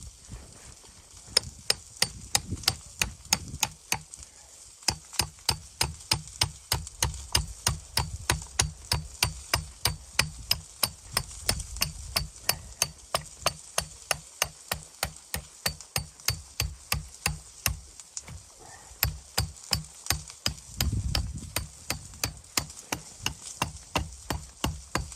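A rapid, even series of sharp knocks, about three a second, each with a dull low thud under it, broken by a short pause about four seconds in.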